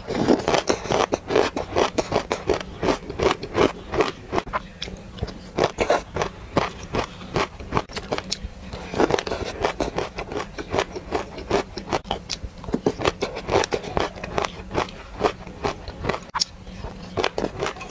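Close-up chewing of a mouthful of dry, crunchy grains: a dense run of crisp crackles, with chewing strokes peaking a few times a second.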